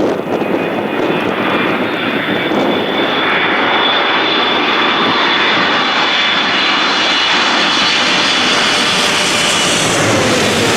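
Airliner's engines running as it passes close by the airfield, a loud steady rush with a high whine on top.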